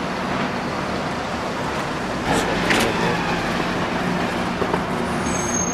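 City street traffic noise: a steady haze of passing vehicles with a low engine hum, and a couple of brief sharp clacks about two and a half seconds in.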